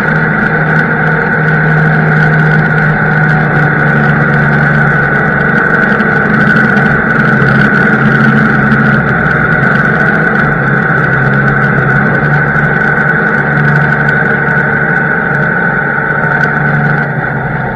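Diesel engine of heavy harvest machinery running steadily, with a constant high-pitched whine over the low engine drone.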